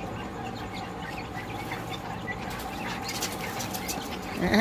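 A grey francolin flapping its wings in a brief flurry about three seconds in, with a few faint chirps over a steady background hum.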